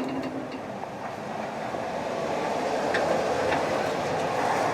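Wood lathe running while a bit in the tailstock's Jacob's chuck bores into the spinning wood blank. It is a steady rumbling, cutting noise that slowly grows louder and eases off at the end, with a couple of faint clicks.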